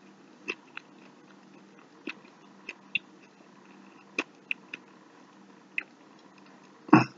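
A person chewing a mouthful of food, heard as scattered soft mouth clicks and smacks, with a louder short mouth sound near the end.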